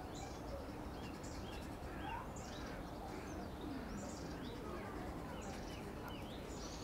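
Small birds chirping and singing in many short, high notes over a steady low rumble of outdoor background noise.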